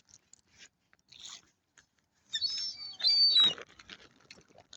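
Birds at the water's edge calling: two loud harsh squawks a little past halfway, after a couple of seconds of faint scattered clicks and rustles.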